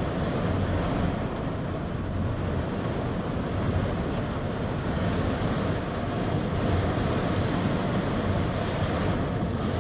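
Steady thunderstorm wind and rain, with wind buffeting the microphone.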